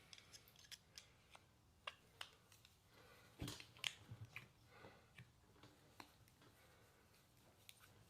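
Faint, scattered clicks and taps of small hand tools and metal parts during a carburetor teardown, with a busier run of clicks about three and a half seconds in.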